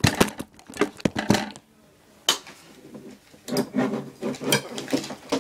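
Handling clatter as a desk lamp is put back in place: a string of sharp knocks and clicks with a short pause about halfway through.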